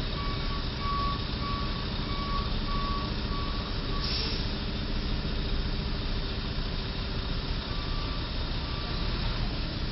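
A truck's reversing alarm beeping at an even pace, about two beeps a second, over a running truck engine. The beeping stops after a few seconds, a brief hiss of air comes about four seconds in, and the beeping returns faintly near the end.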